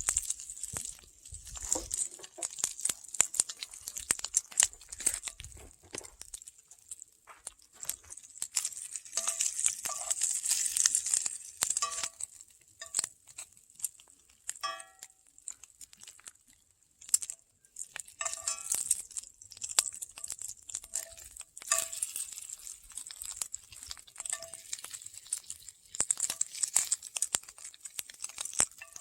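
Open cooking fire with food in a cast iron pan: irregular sharp crackles and pops, with stretches of hissing sizzle.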